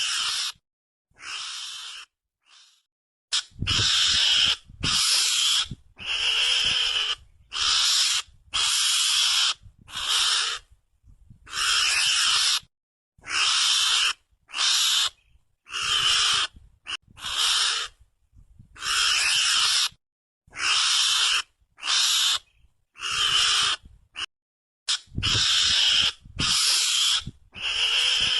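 Mongoose lure call: a long string of short, harsh, raspy screeching calls, each under a second, about one a second with brief pauses between.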